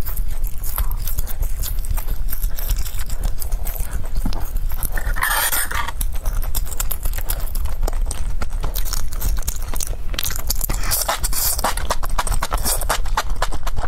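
Close-miked eating sounds: rapid wet chewing and lip-smacking clicks as soft candy and chili-oil enoki mushrooms are eaten, with a brief louder slurp or scrape about five seconds in. A steady low hum runs underneath.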